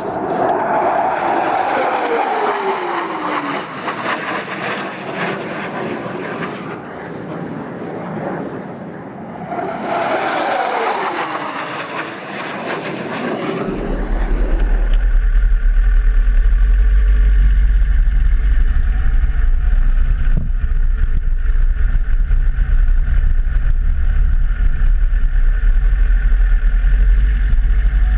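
Two vehicles pass by in turn, each with a falling pitch as it goes past. About halfway through, a motorcycle engine starts running and keeps a steady low drone with even tones.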